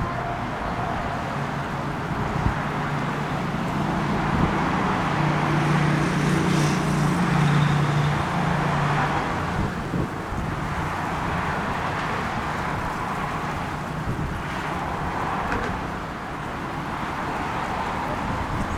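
Road traffic noise, with a motor vehicle's engine hum growing louder through the middle and then fading as it passes.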